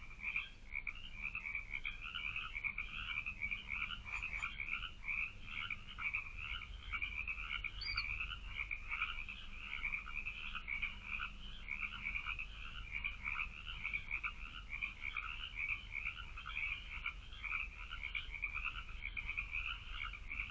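A chorus of many frogs calling, dense overlapping pulsed croaks that carry on without a break, over a faint steady low hum.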